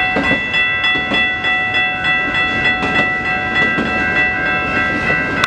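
Several electronic railroad crossing bells ringing together: Siemens high- and low-pitch e-bells and a General Signals Type 3 bell, making overlapping steady bell tones. Under them, the rumble and clickety-clack of a passing Norfolk Southern autorack freight train.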